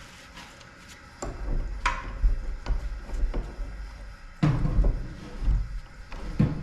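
Irregular knocks, clicks and dull thumps of hand work on the truck's exhaust system, with the first second fairly quiet.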